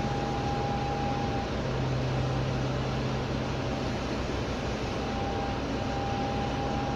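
Cummins ISMe 10.8-litre diesel engine of a Dennis Trident double-decker bus running under way, heard from inside the lower deck as a steady drone. A thin high whine rides over it, fading out about a second and a half in and coming back near the end.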